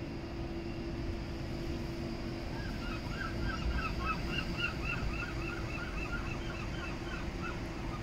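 A bird calling in a fast series of short repeated notes, about three or four a second, starting a couple of seconds in and stopping near the end, over a steady rumble and hum of street traffic.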